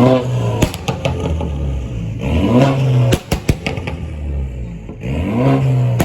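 Car engine revved in three short blips, each followed by a rattle of pops and crackles from the exhaust as the revs fall.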